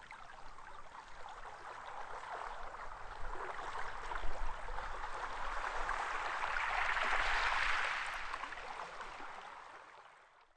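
Sea waves washing onto a sandy beach: one surge of surf swells over several seconds, peaks about three-quarters of the way through, then dies away.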